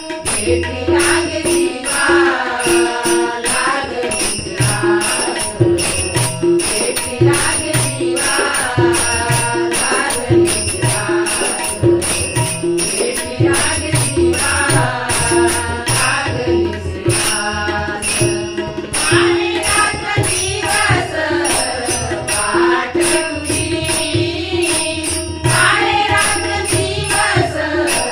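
Devotional abhang music: voices singing a melody over harmonium, tabla and small hand cymbals (tal) ringing in a steady, even beat.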